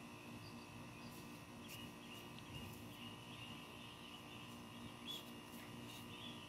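Faint background of small birds chirping repeatedly over a low steady hum, with a few faint ticks.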